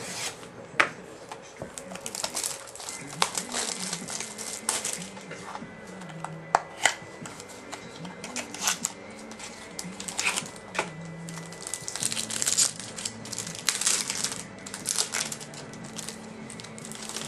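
Packaging crinkling and clicking in irregular bursts as a trading-card box and its wrapped pack are opened and the cards handled.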